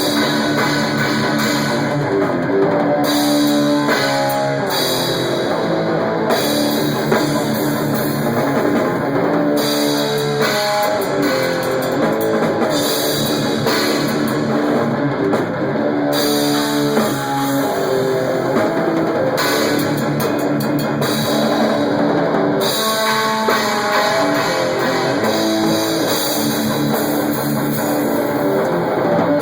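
Rock band playing loudly at full volume, with distorted electric guitar and drum kit, in a heavy metal style. The sound is the raw, unmixed audio of the camera's own microphone close to the drums.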